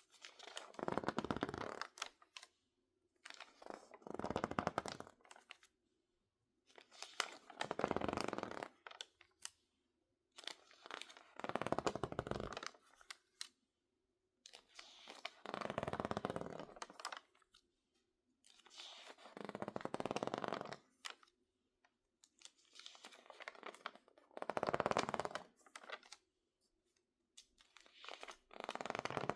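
Stiff, water-damaged magazine pages being crinkled and squeezed by hand in slow, separate handfuls. There are eight bursts of crackling, each about two seconds long and about four seconds apart, with quiet between them.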